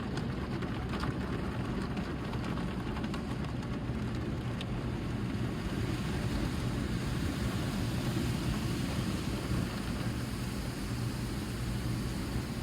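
Automatic car wash running around the car, heard from inside the cabin: a steady low rumble, with a few light ticks in the first few seconds.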